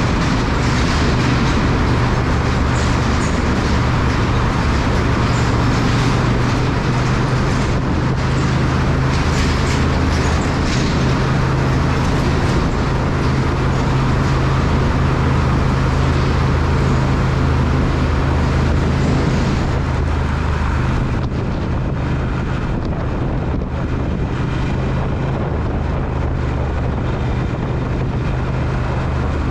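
Triumph Speed Twin parallel-twin engine running steadily under way, a constant low drone under a rush of wind and road noise. About twenty seconds in, the rushing eases a little and the overall sound softens.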